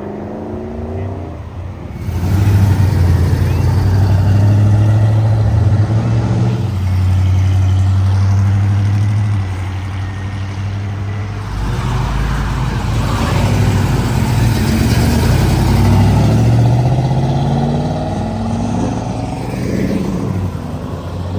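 Engines of muscle and classic cars running and accelerating as several cars drive past one after another, the engine note climbing about midway.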